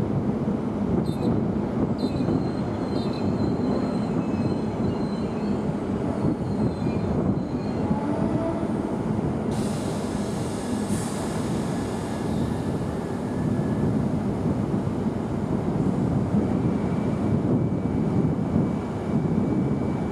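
Train running with a steady rumble, with a thin high wheel squeal over the first few seconds and a hiss coming in about halfway through.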